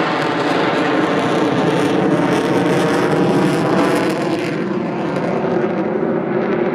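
Avro Vulcan's four Rolls-Royce Olympus turbojets running in a low-level flypast, a loud steady jet roar. Its highest hiss fades away about four and a half seconds in as the bomber passes.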